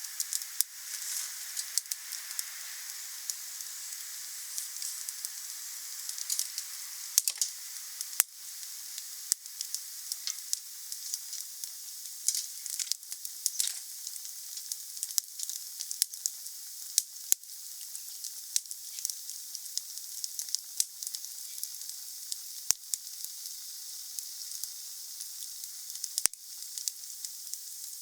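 Wood fire burning: a steady high hiss with frequent sharp pops and cracks.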